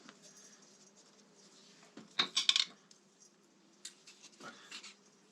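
Metal hand tools clinking and clattering against metal, with a quick cluster of sharp clinks about two seconds in and a few lighter clicks later.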